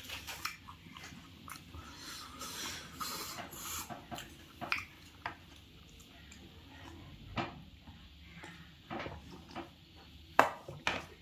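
Close-up eating sounds: chewing and crunching pani puri, with irregular sharp crunches and wet mouth clicks, the loudest about ten and a half seconds in.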